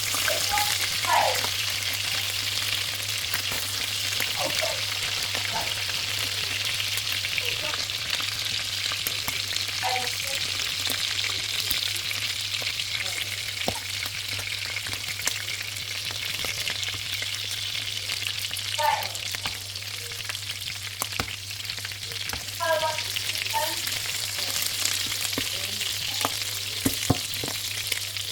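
Chicken wings frying in hot oil in a pan: a steady sizzle with scattered pops and crackles, over a steady low hum.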